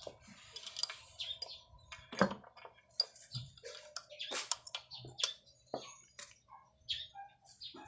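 Irregular light clicks and clinks of metal motorcycle engine parts being handled and fitted during reassembly, with a louder knock about two seconds in.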